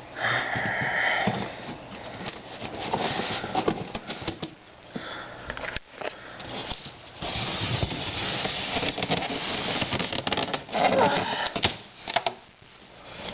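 A shipping box being unpacked by hand: packing material rustling and crackling in irregular bursts, with scattered knocks and scrapes.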